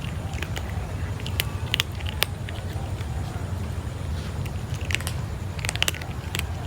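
Kitten chewing and biting its food: irregular sharp clicks, bunched about a second and a half in and again from about five seconds in, over a steady low rumble.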